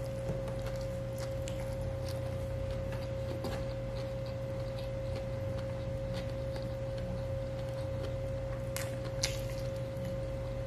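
Chewing and mouth sounds of a man eating grilled chicken and rice with his hands, with small scattered clicks and one sharper click about nine seconds in. A steady single-pitched hum sounds underneath.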